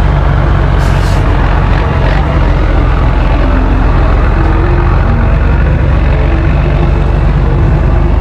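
Scania 112 HS's 11-litre inline-six diesel running steadily through a straight-through exhaust, a deep, loud rumble. A short hiss of air comes about a second in.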